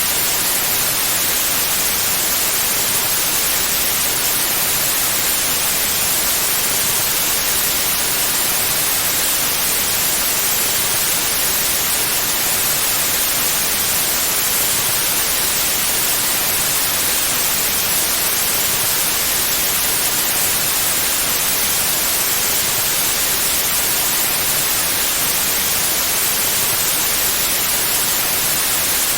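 Steady white noise: an even, unbroken hiss, brightest in the highs, with no change in level.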